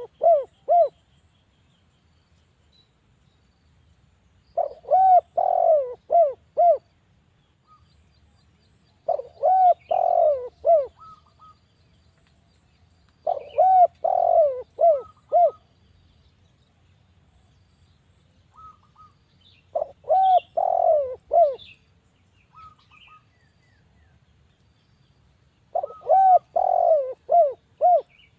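Spotted dove (derkuku) cooing: phrases of four or five low, arched coos, each phrase about two seconds long, repeated about every five seconds. Faint high chirps from other birds come between the phrases.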